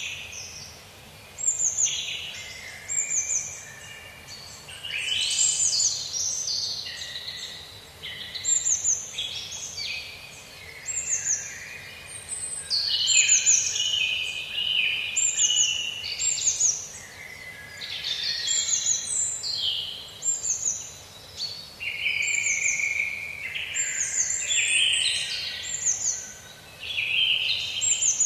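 Several songbirds chirping and singing at once. A high, thin chirp sliding down in pitch repeats about once a second, over busier, lower phrases from other birds.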